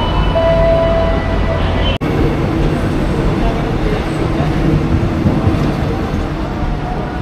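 Railway platform ambience: an electric commuter train's steady hum and whine beside the platform, mixed with crowd chatter. The sound cuts off abruptly about two seconds in and resumes as a noisier mix of train noise and voices.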